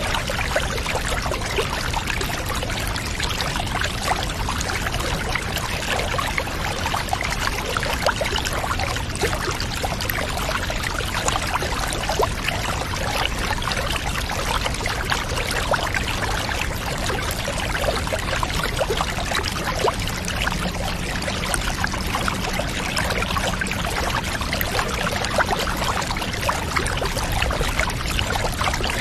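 Water pouring and running steadily, a constant splashing flow with no break or change, as of a bath being filled.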